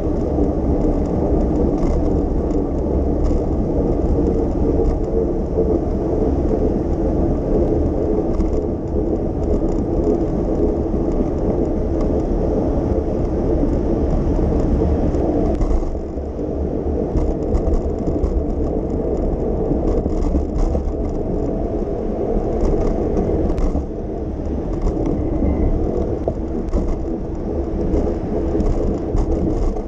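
Bicycle riding on city streets: steady rumble of wind on the microphone and road noise, easing slightly about sixteen seconds in and again near twenty-four seconds.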